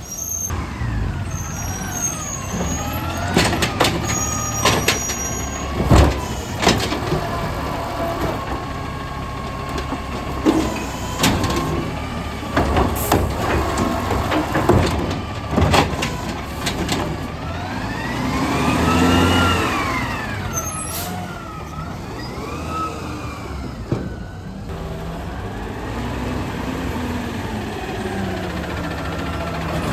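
Garbage truck running, with a string of sharp bangs and clatters and, about two-thirds of the way through, its engine pitch rising and then falling.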